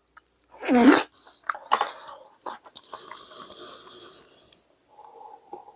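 A man's short voiced exclamation of relish about a second in, followed by quieter chewing and mouth sounds with small clicks.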